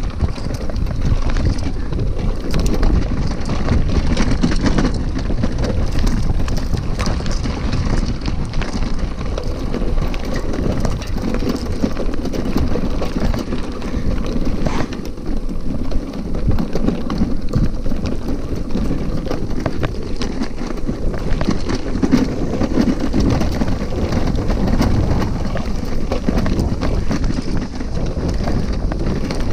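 Bicycle riding over a rough dirt trail: a continuous loud rumble and rattle from the bike and the bag-carried camera, broken by frequent small knocks and clatter as it bumps along.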